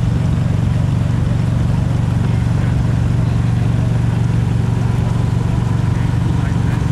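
Lotus Elise engine idling, a steady low hum with no change in revs.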